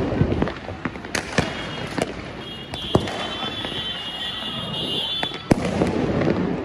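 Fireworks going off across the city: scattered sharp bangs and crackles, densest at the start and the end, with a loud bang about five and a half seconds in. A steady high-pitched tone sounds from about two and a half seconds in until just before that bang.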